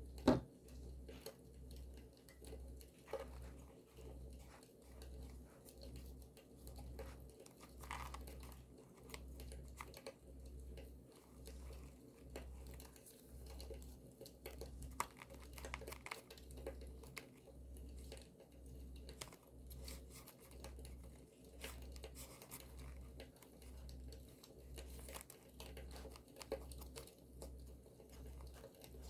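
Paper being handled, crinkled and torn for journaling, with a campfire's light crackle and a low hum that pulses about once a second. One sharp snap just after the start is the loudest sound.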